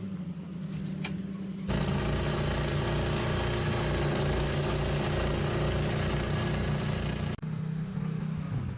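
An engine running steadily. It becomes abruptly louder and fuller about two seconds in, then drops back just as suddenly near the end.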